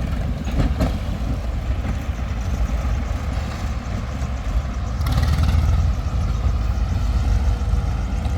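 Heavy diesel machinery running steadily, an excavator and tractor working together, with a louder surge for about a second around five seconds in.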